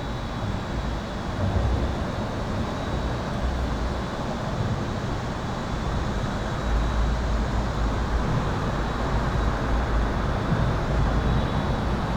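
Continuous highway traffic rumble heard from under an overpass, the low rumble growing heavier about halfway through. A faint, steady, high-pitched buzz runs beneath it.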